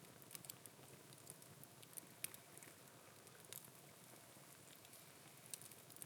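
Faint, irregular crackling: scattered small sharp ticks over a low steady hiss.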